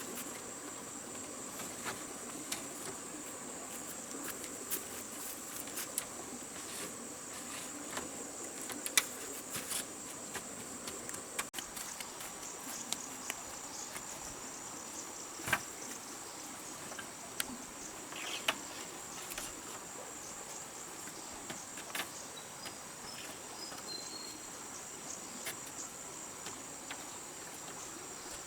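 Steady high-pitched insect chorus from the rainforest, with scattered sharp clicks and knocks over it.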